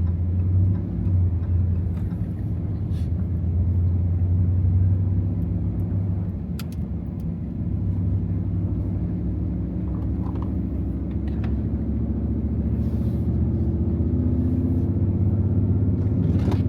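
Ram TRX's supercharged 6.2-litre V8 running as the truck drives through snow: a steady low drone with faint engine tones above it and a few light clicks.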